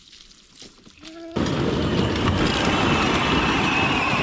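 A child's ride-on toy tractor setting off: after about a second of quiet, a sudden steady run of motor whine and wheels rolling over the ground begins and holds.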